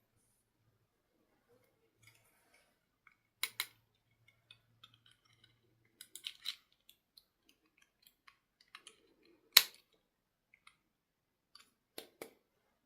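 Scattered small clicks and taps of objects being handled by hand, with a few sharp snaps. The loudest snap comes about two-thirds of the way through.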